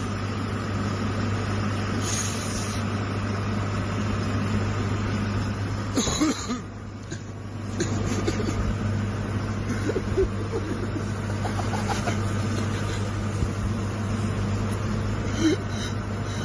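Steady vehicle noise heard from inside a car: a constant low engine hum under road noise, with a short burst of noise about six seconds in and a brief quieter stretch after it.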